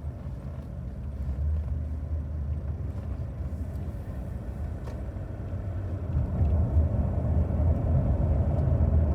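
Car driving along, heard as a steady low road and engine rumble from inside the cabin, growing louder about six seconds in.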